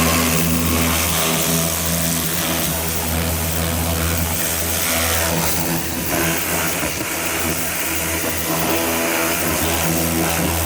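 Pressure washer (gurney) running and spraying water: a steady motor hum under a loud hiss of spray, cutting off suddenly at the end.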